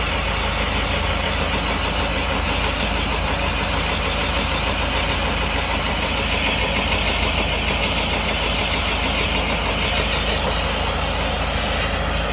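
Motor-driven blower running steadily, pushing air and dust through a dryer vent: a low hum under a strong airy hiss, the hiss easing near the end.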